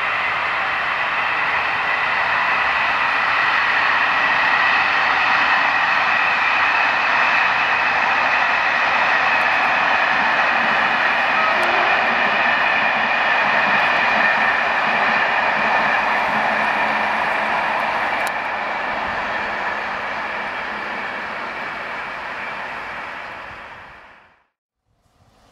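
A long passenger train running past on the rails: a steady rushing rolling noise with a high ringing band in it, fading over the last few seconds and then cutting off.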